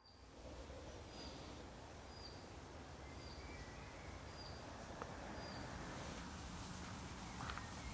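Faint woodland ambience with a steady background hiss, and a bird repeating a short high call about once a second, five times, in the first half.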